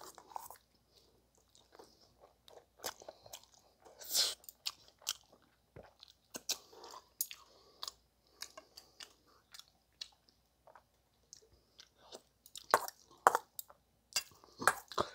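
Close-up chewing and crunching of food in the mouth, with sharp clicks of a metal spoon and chopsticks against a stainless steel bowl; the loudest clicks come near the end.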